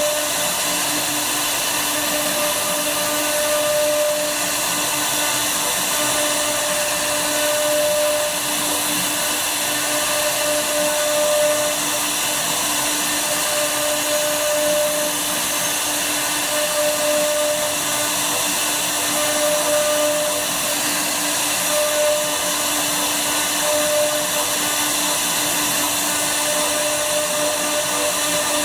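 CNC router's spindle running steadily while cutting wood, a constant whine with a hiss over it. A second, higher tone comes and goes every two to three seconds as the cut goes on.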